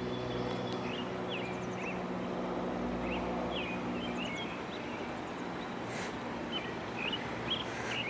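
Outdoor background: a steady low machine hum under a constant haze of noise, with birds chirping in short calls throughout.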